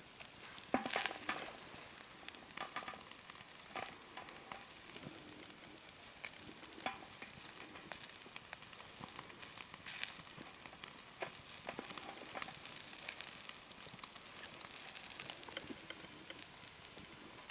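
Hamburger patties sizzling on a grill over a fire made in a washing-machine drum, a steady hiss broken by sharp crackles and pops. The loudest pops come about a second in and near the middle.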